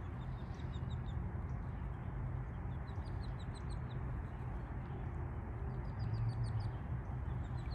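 A songbird singing phrases of short, quick, high chirps, three runs of them, over a steady low rumble.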